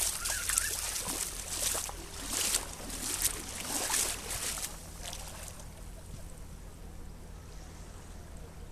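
Beach ambience: short washes of hiss in the first few seconds, like small waves breaking, then a quieter steady wash, over a steady low hum.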